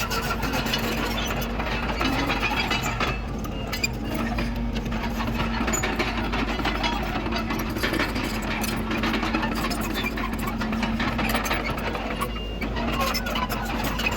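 Diesel engine of heavy earthmoving machinery running steadily under load, with a dense mechanical clatter over it.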